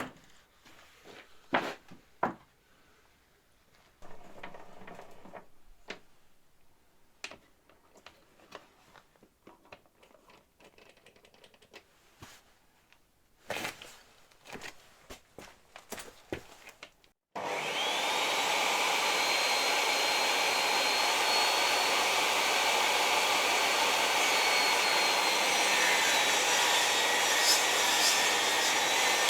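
Scattered light knocks and handling clicks, then, about seventeen seconds in, an electric motor-driven machine switches on suddenly and runs steadily with a constant rushing noise and a faint high whine.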